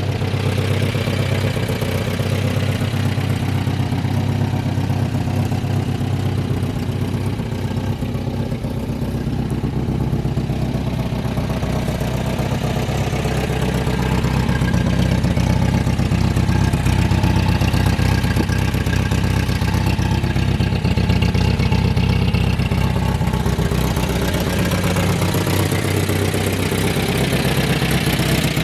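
1969 Datsun Roadster's inline four-cylinder engine idling steadily, warmed up. It gets a little louder about halfway through.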